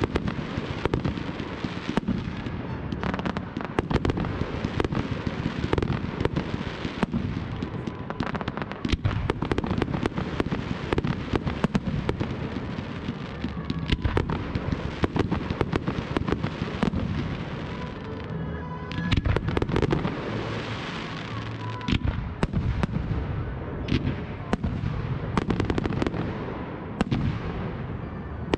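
Fireworks display: a dense, continuous barrage of aerial shell bursts and ground-fired effects, sharp bangs and crackles overlapping one another. The barrage eases briefly about eighteen seconds in, then picks up again.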